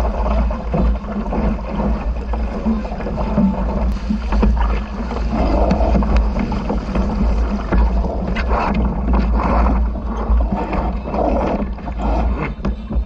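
Aboard a small sailboat under way: a steady low rumble with rushing water and wind noise, swelling unevenly.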